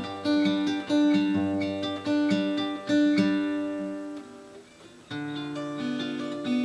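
Acoustic guitar playing picked notes of a song's instrumental outro after the last sung line. The notes fade to a brief lull about four and a half seconds in, then the playing picks up again.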